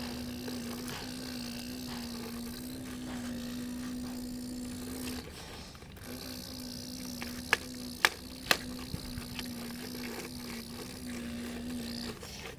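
Small electric motor of a radio-controlled excavator's hydraulic pump humming steadily on one pitch. It stops for about a second in the middle, then runs again. Three sharp plastic-sounding clicks or knocks come just after it restarts.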